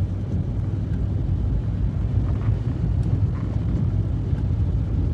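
Low, steady rumble of wind buffeting the microphone, with an uneven, gusty flutter.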